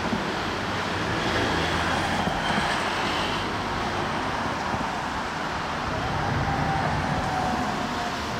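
Street traffic noise with a vehicle engine running steadily, and a faint, slowly falling tone near the end.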